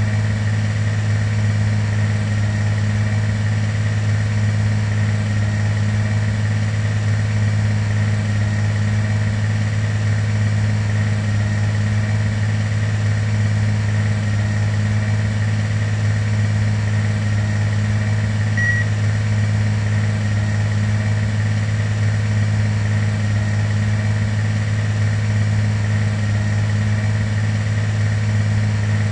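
Steady drone of an airliner's engines and airflow heard from inside the passenger cabin, a deep even hum with a thin high tone over it.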